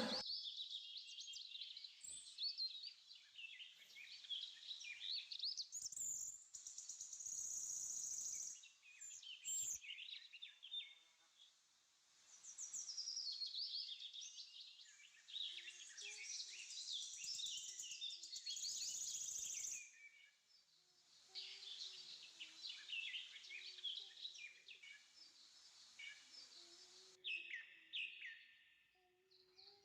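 Faint birds chirping in the background, in several short stretches broken by brief near-silent gaps.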